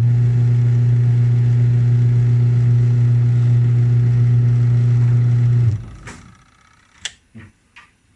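Washing machine's electric motor running with a loud, steady, low hum, switched off suddenly a little under six seconds in: a test run after the gearbox repair. A few short clicks and knocks follow near the end.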